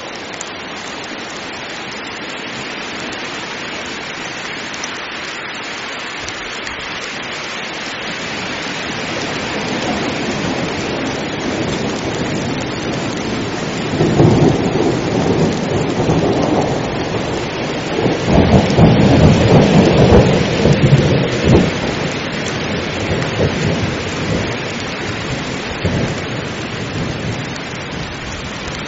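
Heavy rain falling steadily, with a long peal of thunder rumbling in about halfway through, loudest a few seconds later and fading out.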